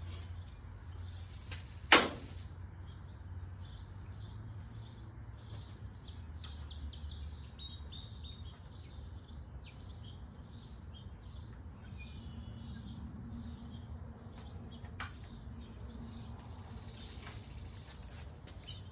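A small bird chirping over and over, about two short chirps a second, over a low steady hum. One sharp knock about two seconds in is the loudest sound.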